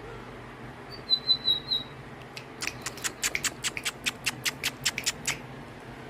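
Lined seedeater (bigodinho) singing: four short high whistled notes, then a fast run of about fifteen sharp, dry notes. It is a bird coming back into song after its moult.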